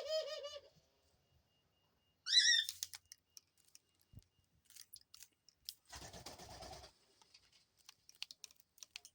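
Pet dove pecking seeds off a foxtail millet spray, a scatter of small sharp clicks. A warbling coo trails off just at the start, a short high chirp comes about two seconds in, and a brief rustle follows about six seconds in.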